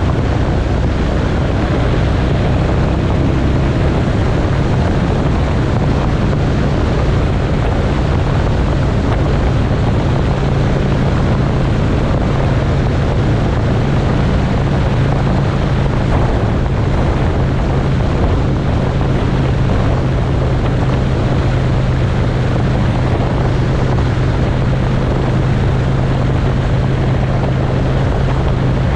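Motorcycle engine running at a steady cruising speed, its low hum holding an even pitch, under heavy wind rushing over the microphone.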